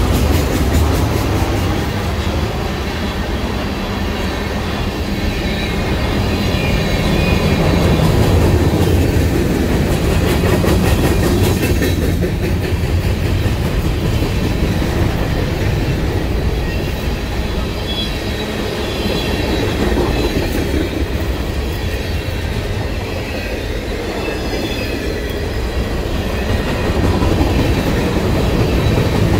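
Freight cars of a Canadian Pacific freight train rolling past close by: boxcars, tank cars and covered hoppers. Their steel wheels on the rails make a loud, steady rumble with clattering over the rail joints.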